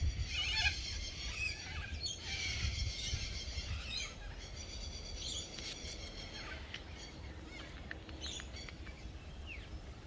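Several birds calling and singing, with many short chirps and quick whistled notes, over a steady low rumble.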